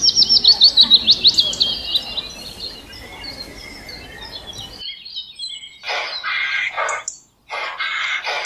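Bird song: a fast run of sharp, high, descending notes for about two seconds that fades away. After an abrupt change, a bird gives harsh, raspy squawking calls, each about a second long, repeated.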